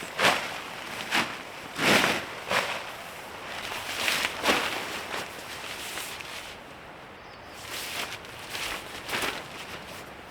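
A string of irregular rustling and crunching noises, some louder than others, with a quieter stretch just past the middle.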